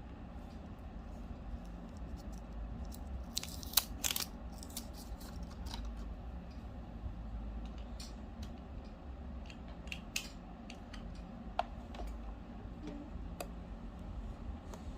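Scattered light clicks and taps of hands handling small objects, the loudest pair about four seconds in, over a steady low hum.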